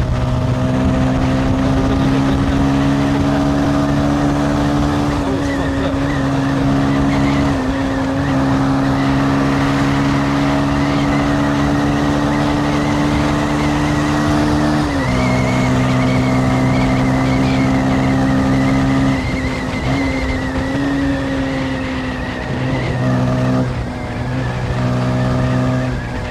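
Carburetted motorcycle engine running at a steady cruise, heard from the bike over road and wind rumble. The engine note breaks off briefly and comes back several times, once settling a little lower.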